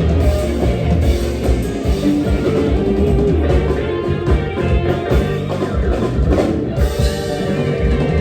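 Live Isan mor lam band music with a steady drum-kit beat.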